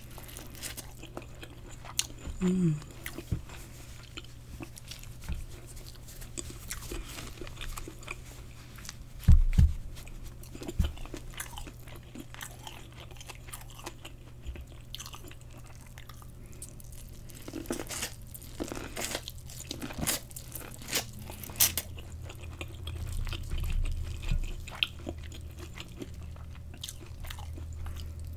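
Corn on the cob being bitten and chewed close to the microphone: crunching bites and wet chewing, with a single loud thump about nine seconds in.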